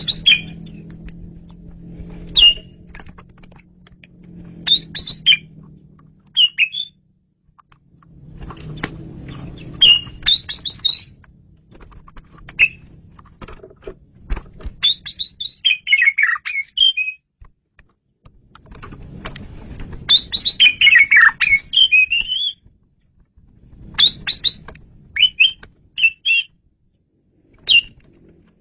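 Male Asian pied starling (jalak suren) singing: clear, loud bursts of squeaky, chattering whistled notes, separated by short pauses. The longest and loudest phrases come a little past halfway.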